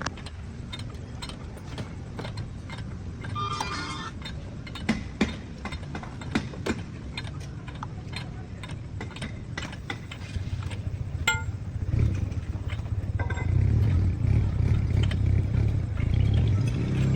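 Repair work on a car in a workshop: scattered metal clinks and knocks of tools and parts, with a brief metallic jangle a few seconds in, over a low steady rumble that grows louder about twelve seconds in.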